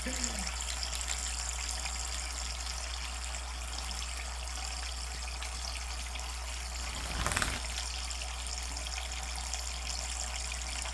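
Tap water running steadily from a faucet, with a short louder noise about seven seconds in.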